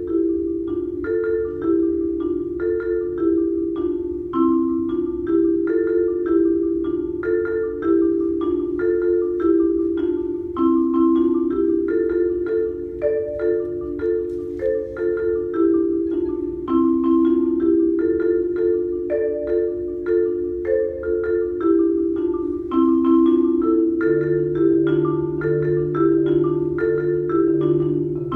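Solo marimba playing a fast repeating figure of struck, ringing mallet notes in the middle register, the pattern coming round about every two seconds. Deeper bass notes join in near the end.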